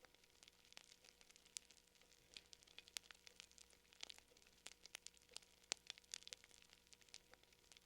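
Fire crackling: quiet, irregular snaps and pops, several a second.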